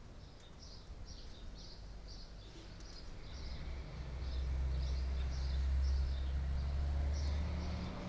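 A small bird chirping over and over, about two short high chirps a second. Beneath it a low rumble grows louder from about halfway through and eases near the end.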